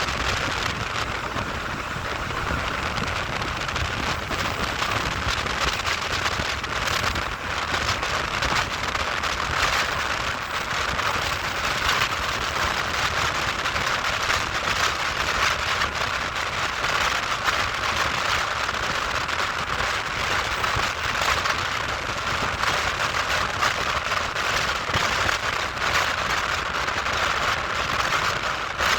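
Steady, even running noise of a train in motion, a continuous rushing hiss.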